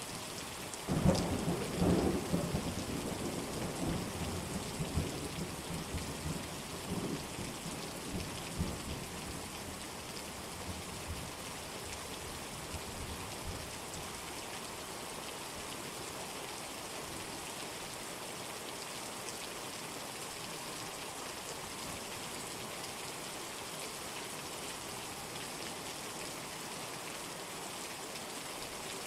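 Steady heavy rain with a roll of thunder that breaks about a second in and rumbles away over the next several seconds, leaving only the rain.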